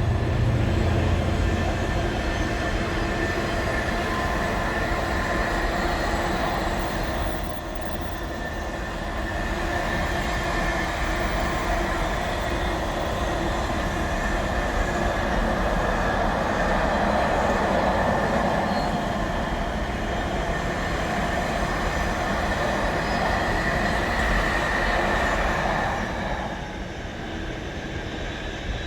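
Freight train wagons rolling past on the rails: a steady rumble with long, high wheel-squeal tones over it. It quietens about 26 seconds in as the train draws away.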